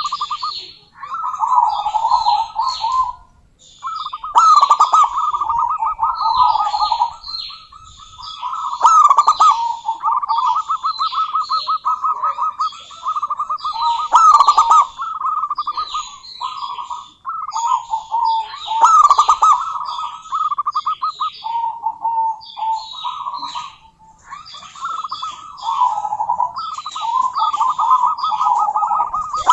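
Zebra dove giving rapid, trilled cooing calls in phrases of a few seconds with short pauses, nearly without break, with higher-pitched chirping over them.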